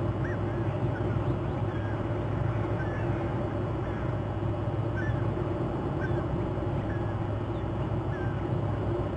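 Short, high bird chirps about once a second over a steady low drone.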